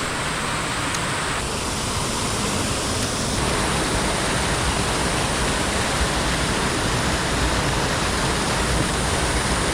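Steady rush of creek water running over rocks, an even hiss with no single splashes standing out.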